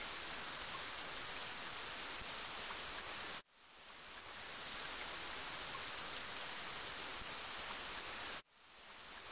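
Steady rain, an even wash of noise. It cuts out abruptly twice, about three and a half and eight and a half seconds in, and each time fades back in over a second or so.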